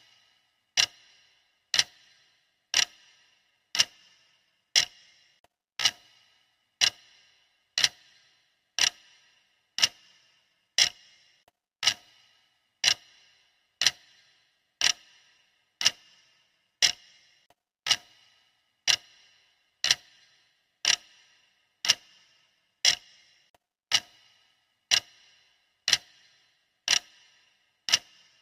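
Countdown timer's clock ticking sound, one sharp tick each second, every tick alike, with a brief bright ring after each.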